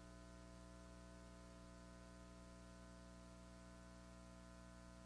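Near silence: a faint steady electrical hum of evenly stacked tones with a light hiss, unchanging throughout.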